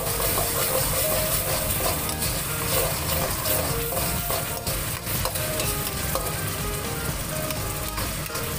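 Sambal spice paste with shrimp paste frying in hot oil in a pan, sizzling steadily while it is stirred.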